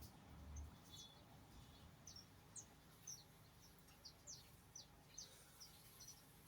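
Faint, short, high bird chirps, about two a second, each a quick downward sweep.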